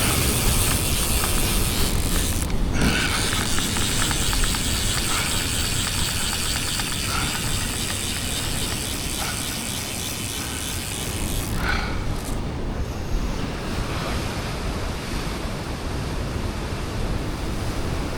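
Steady ocean surf, with wind rumbling on the microphone.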